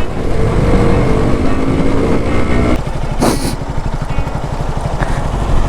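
Single-cylinder motorcycle engine running under way, its pitch climbing slightly over the first few seconds, with a short hiss about three seconds in.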